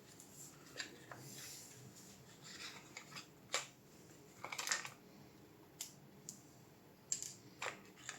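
Scattered small clicks, taps and brief scrapes of hand work on a graphics card's small parts and tools, with a few sharper clicks.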